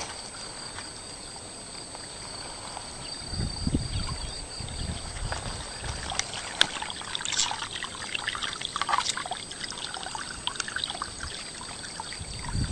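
Water pouring and trickling onto a bed of onions as it is watered, a steady splashing hiss with small drips and clicks. Low rumbling bumps come and go from about three seconds in.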